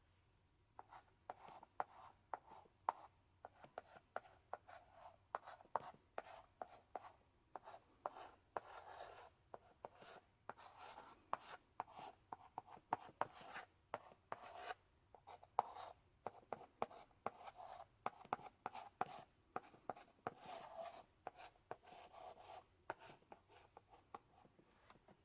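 Chalk in a chalk holder writing on a blackboard: a long run of short scratchy strokes and sharp taps as characters are written, starting about a second in.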